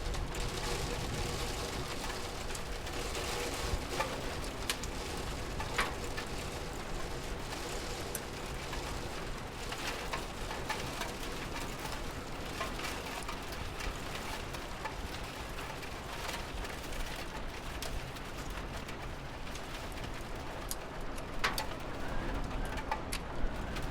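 Steady rain falling, with scattered sharp drips and taps throughout.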